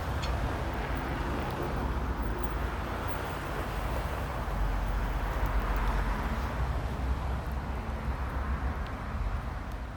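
Outdoor street traffic noise: a steady low rumble of passing vehicles, swelling as a vehicle goes by about halfway through.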